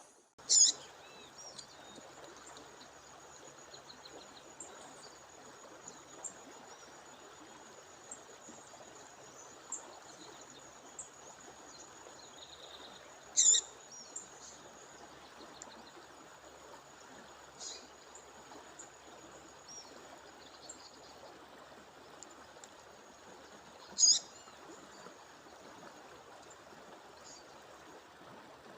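A female songbird calling: three loud, short, sharp calls about ten seconds apart, with fainter chirps between, over the steady rush of a waterfall.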